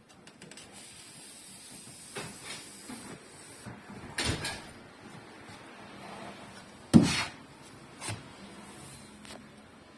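Several sharp knocks and clunks, like hard parts being handled or set down, with the loudest about seven seconds in and a faint hiss in the first few seconds.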